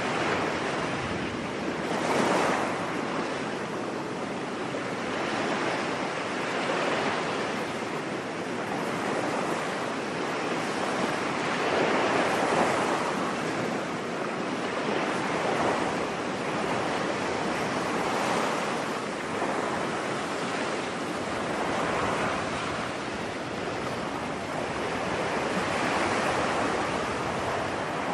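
Ocean surf on a beach: a steady wash of waves breaking, swelling and ebbing every three to six seconds.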